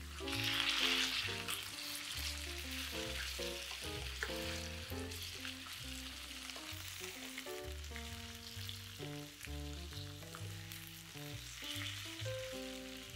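Food sizzling in hot oil in a frying pan. The sizzle jumps up suddenly at the start and is loudest in the first second or so, then carries on steadily with another swell near the end. Background music plays underneath.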